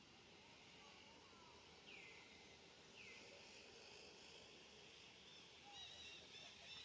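Faint outdoor ambience: a steady high hiss with a few bird calls, two sweeping calls about two and three seconds in, then a run of short chirps near the end.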